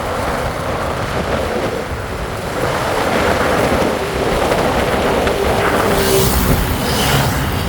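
Wind rushing over the microphone and road noise while riding a bike, steady throughout, with a louder hissy gust about six seconds in.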